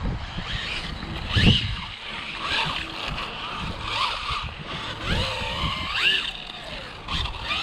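Electric motor of a 1/12-scale Rlaarlo AMX12 RC buggy running on a 3S battery, whining up and down in pitch through a series of short throttle bursts. Tyre and wind noise lie underneath.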